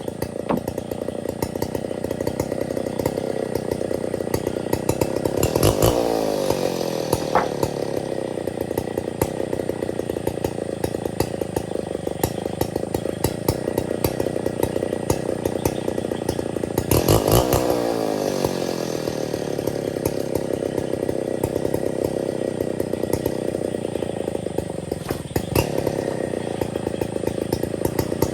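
Stihl 070 two-stroke chainsaw running under load while cutting ironwood. Its engine speed swells and then falls back twice, about six and seventeen seconds in.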